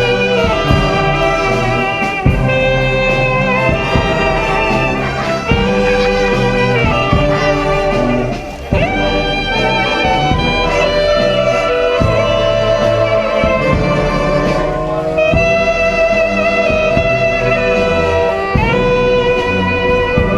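Symphonic wind band playing a danzón, with saxophones and brass carrying long held melodic notes over a low bass line. There is a momentary break in the sound about eight seconds in.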